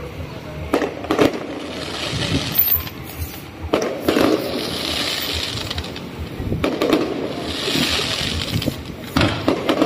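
Aerial fireworks shells bursting overhead: sharp bangs, mostly in pairs every two to three seconds, each followed by about a second of crackling from the burning stars.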